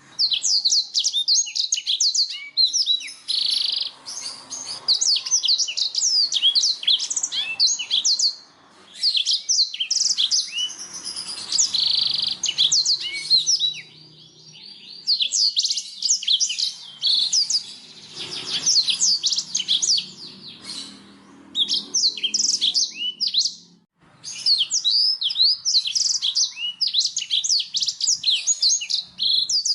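Black-throated canary (blackthroat) singing: long runs of fast, high twittering notes and trills, broken by a few short pauses.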